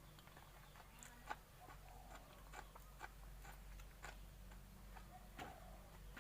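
Faint chewing of raw shrimp: soft, wet mouth clicks at an even pace of about two a second, over a low hum.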